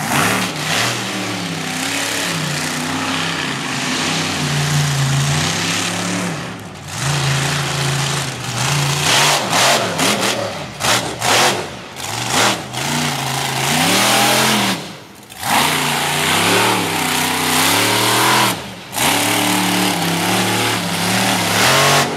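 Monster truck engine revving up and falling back over and over during a freestyle run, with a few sudden brief drops in sound.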